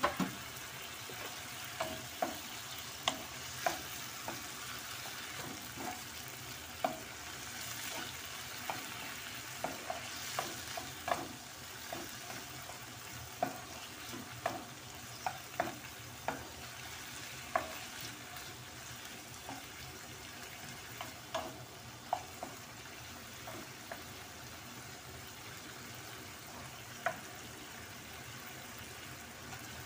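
Chicken pieces with onion and garlic sizzling in a pan while a wooden spatula stirs them, with irregular taps and scrapes of the spatula against the pan.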